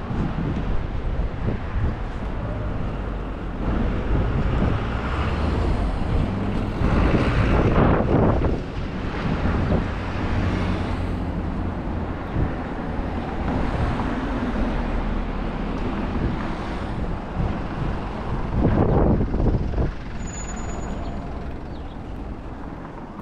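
Street traffic with heavy vehicles, a truck or bus engine running close by. There are two louder rushing swells, about seven seconds in and again near nineteen seconds.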